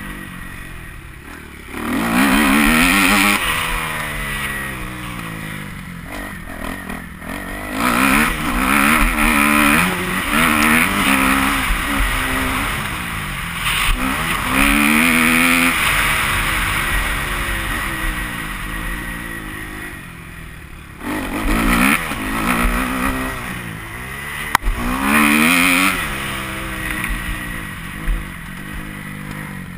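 Kawasaki KX250F single-cylinder four-stroke motocross bike being ridden hard. The revs climb and drop over and over through throttle blips and gear changes, with loud surges about two, eight, fourteen and twenty-two to twenty-six seconds in.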